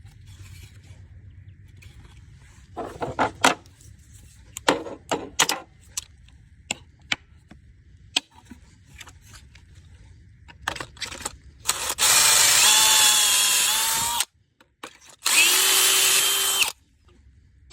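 Clicks and knocks of a pocket hole jig being set on a board, then a power drill running twice, about two seconds and then a second and a half, boring pocket holes through the jig's guide, its motor whine dipping in pitch as the bit bites.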